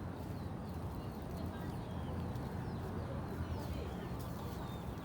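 Birds chirping: many short, quick chirps over a steady low background rumble.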